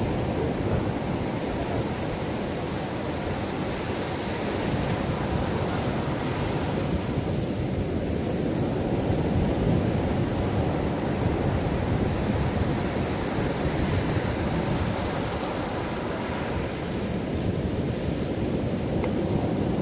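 Ocean waves breaking and washing up the shore in a steady rush of surf, swelling and easing slowly over several seconds, with a low rumble of wind on the microphone.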